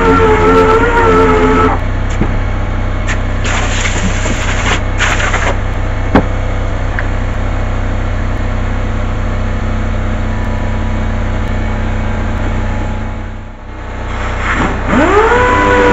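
A shop power tool's motor whines steadily, stops under two seconds in, and leaves a steady noisy hum with a few clicks. Near the end the motor spins up again with a rising whine that levels off.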